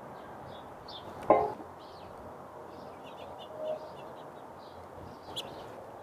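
Small songbirds chirping in short high calls throughout, with a sharp knock about a second in and a fainter click near the end.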